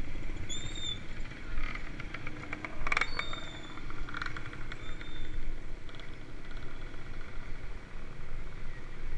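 Riding noise on a moving mountain bike: a steady low rumble of tyres and wind, with bursts of rapid clicking and a few short high chirps.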